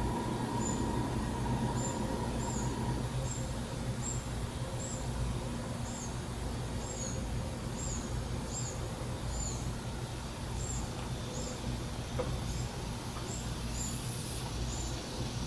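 A small bird calling with short, thin, high chirps, repeated about once or twice a second, over a steady low outdoor rumble.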